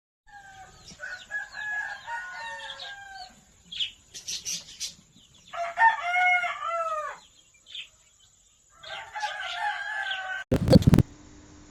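Bird calls in three bouts of pitched, bending notes, then a loud thump shortly before the end.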